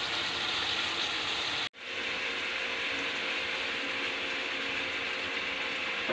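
Chicken livers frying in a pan, a steady crackling sizzle that cuts out for a moment about two seconds in.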